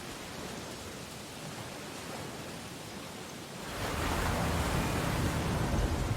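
Ocean surf on a beach: a steady wash of waves, with a louder wave breaking and rushing in about three and a half seconds in.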